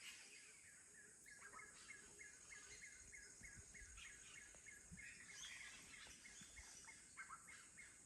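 Faint Amazon rainforest ambience: a bird chirping in a quick, even series of about four chirps a second, over a steady high hiss.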